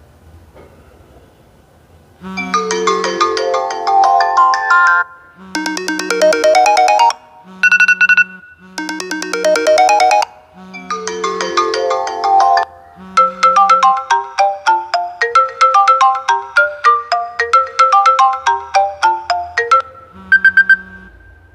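A string of iPhone ringtones played one after another, each a short melodic phrase of one to three seconds with brief gaps between them; the longest, a quick run of notes, lasts about seven seconds.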